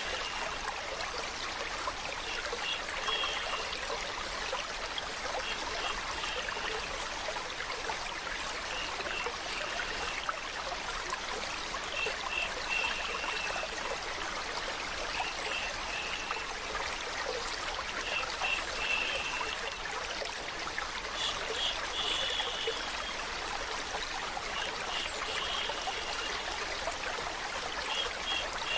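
Stream water running and trickling steadily. Over it, a short high chirping pattern repeats about every three seconds.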